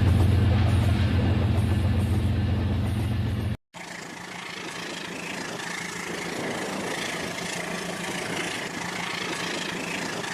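RailKing model train running: first a loud steady low hum, then, after an abrupt cut about three and a half seconds in, a quieter rolling rattle of the train on the track.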